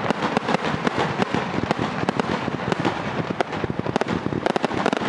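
Fireworks going off in a dense, rapid barrage of many bangs and crackles a second.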